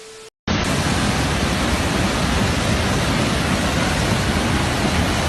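Loud, steady static-like hiss that switches on abruptly about half a second in and holds an even level throughout, with nothing else audible in it.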